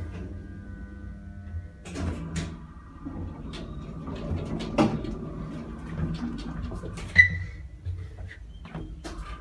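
Hydraulic elevator running, with a steady hum and a thin whine from about two seconds in, overlaid by frequent clicks and knocks, and a short high ding about seven seconds in. The elevator's motor is considered bad.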